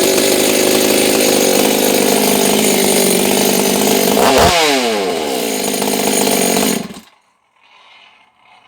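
Ported 86cc two-stroke chainsaw engine running loudly: an Echo CS600 powerhead fitted with a 54 mm big-bore Stihl 460 cylinder. Just before halfway its pitch drops and climbs back, and about 7 seconds in it cuts off abruptly.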